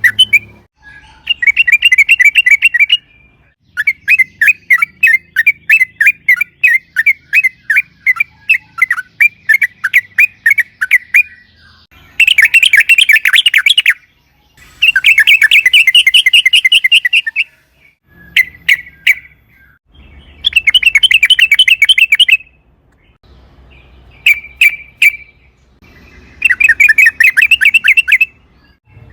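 Yellow-vented bulbul (trucukan) singing loudly in fast chattering phrases of rapidly repeated notes: a long run of separate notes, then several dense bursts of a second or two each with short pauses between.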